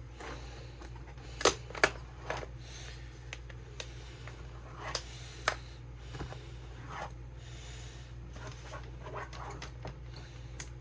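Plastic lids and latches of Craftmates Lockables storage compartments clicking and snapping as they are unlocked and popped open, with two sharp clicks close together about a second and a half in, a few softer clicks later, and light handling of the plastic between.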